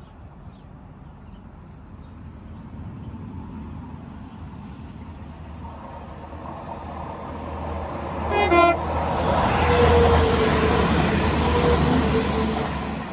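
An approaching Northern diesel multiple unit sounds a short horn blast about two-thirds of the way through. It then comes alongside, its engine and wheel noise growing loud and holding steady before easing off at the very end.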